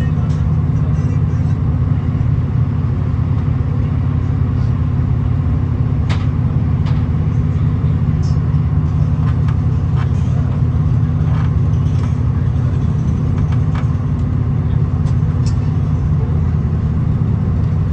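V/Line VLocity diesel railcar running steadily, heard from inside the carriage as a constant low rumble, with a few light clicks scattered through.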